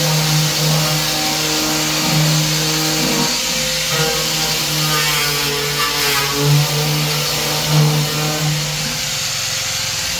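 Steady mechanical noise like a power tool running, under background music of held notes.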